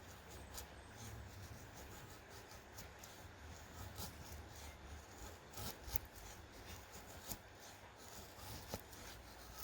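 Faint rubbing and scraping of things being handled, with a few sharp clicks, the loudest about six seconds in, over a low steady hum.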